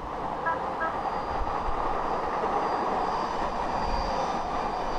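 Fixed-wing airplane's engines running at takeoff power, growing a little louder, with a thin high whine coming in after about a second and a half.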